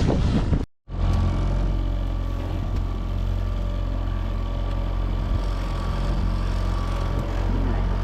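Wind buffeting the microphone with waves against the boat, a brief dropout under a second in, then a boat motor running steadily.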